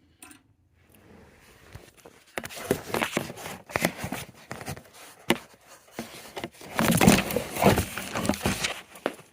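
Small flathead screwdrivers scraping and clicking in a motorcycle fuel-tank lock as its pins are worked aside, a quick irregular run of metal clicks and scrapes that starts about two seconds in and is busiest near the end.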